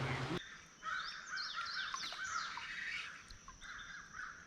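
Wild birds singing and chirping outdoors: many quick high notes, several sliding down in pitch, over a thin steady trill. About half a second in, a louder rush of noise with a low hum stops abruptly and gives way to the birdsong.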